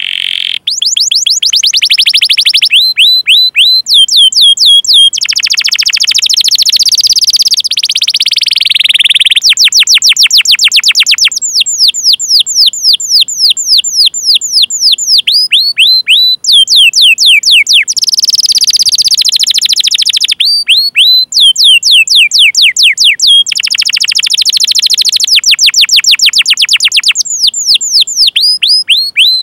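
Domestic canary singing a long, unbroken song of rapid runs of repeated downward-sweeping chirps (the 'cuit cuit' call). The runs are broken twice by denser, buzzing rolled trills.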